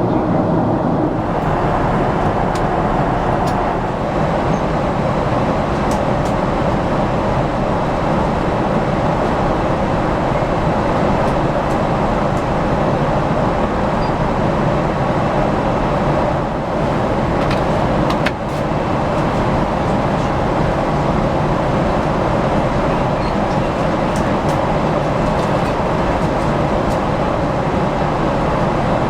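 Steady cabin noise inside a Boeing 777-300ER airliner: the even rush of airflow and engine noise, with a faint click and a brief dip a little past halfway.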